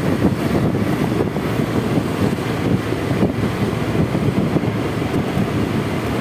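Wind buffeting the microphone on a moving Honda Vario 125 scooter, a steady low rumble with road and traffic noise mixed in.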